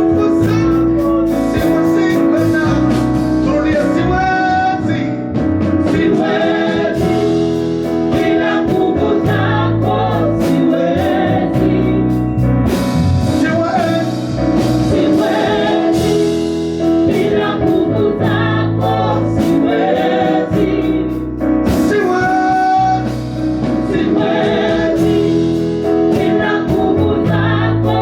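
Gospel praise and worship music: a band with keyboard and a steady beat, with voices singing together.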